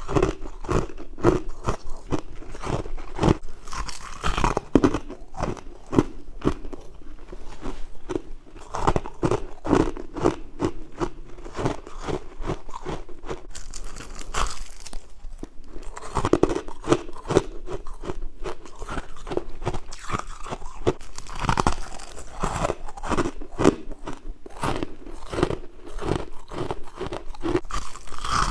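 A person biting and chewing crunchy white humidifier frost: a dense, irregular run of crisp crunches and crackles, with a short quieter pause about halfway through.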